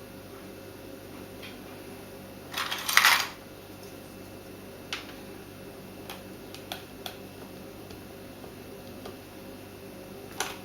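Small hard plastic keyboard keycaps being handled: a short rattling clatter about three seconds in, then a few scattered single clicks, over a steady low hum.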